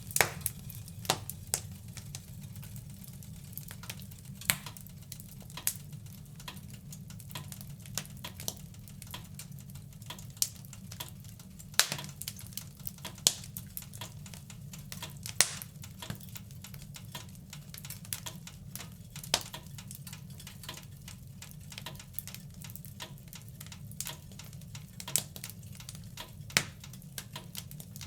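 Wood fire in a fireplace crackling: irregular sharp pops and snaps, a few much louder than the rest, over a steady low rumble.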